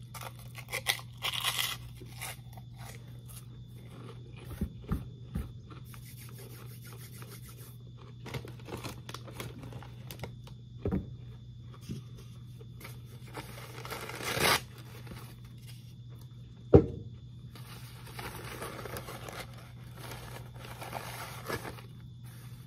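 Fried pork rind crunching as it is bitten and chewed, loudest in the first couple of seconds. Intermittent rustling and crinkling of the snack bag follows, with a sharp knock about seventeen seconds in, over a steady low hum.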